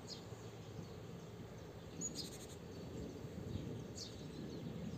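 Low rumble of an approaching passenger train, growing slowly louder, with a bird calling three times in short falling chirps.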